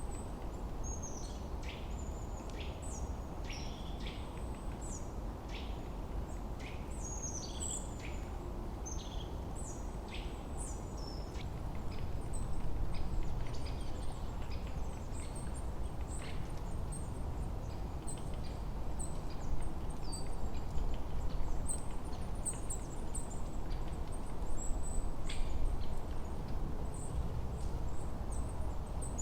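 Forest ambience: several birds chirping and calling in quick, high notes, thick in the first half and thinner later, over a steady low rushing background that swells a little in places.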